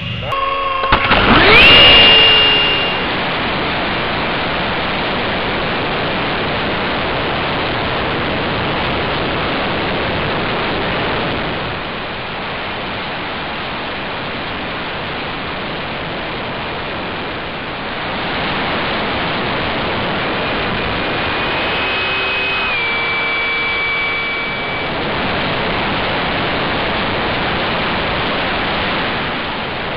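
Electric ducted-fan RC jet in flight: its whine rises sharply about two seconds in, under a steady rushing noise. Around twenty seconds in, the fan's whine comes back faintly and steps down in pitch as the jet passes.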